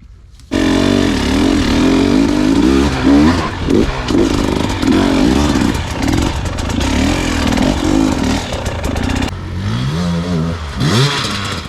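Dirt bike engine revving up and down as it is ridden on the trail. It comes in suddenly about half a second in and eases off near the end.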